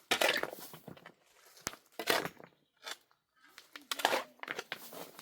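Irregular crunching and rustling noises in short bursts, with one sharp click about a third of the way in.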